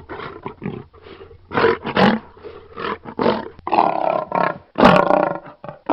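Lion roaring: a rapid series of short, rough roars and grunts.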